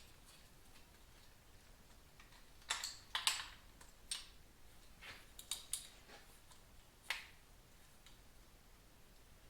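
A few sharp clicks and knocks from hand work on a motorcycle's parts, bunched between about three and seven seconds in, the loudest near three seconds.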